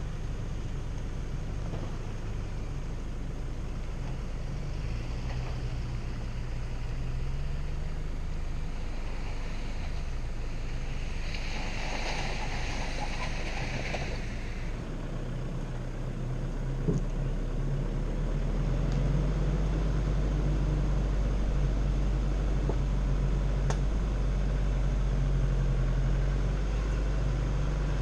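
Off-road 4x4's engine running steadily at low speed on a dirt track, its low hum getting a little louder in the second half. A short hissing rush comes about twelve seconds in.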